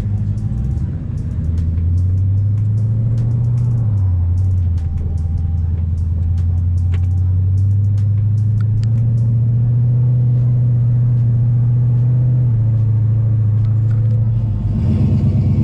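Twin-turbo Mustang engine idling with a deep, steady drone that rises and falls slightly in pitch a few times, with faint light ticking over it.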